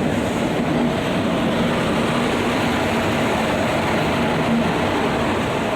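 Train running on the rails, a loud steady rumble with no breaks.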